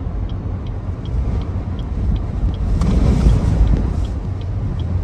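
Blizzard wind with gusts of 50–55 mph buffeting a vehicle: a heavy low rumble that swells in a stronger gust about three seconds in, with faint regular ticking.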